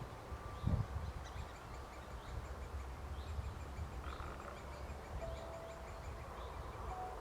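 Faint, repeated bird chirps over a low, steady rumble of wind and handling noise, with a single knock about a second in.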